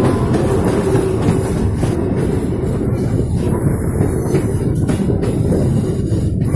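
Train running along the track: a loud, steady rumble with scattered knocks of the wheels.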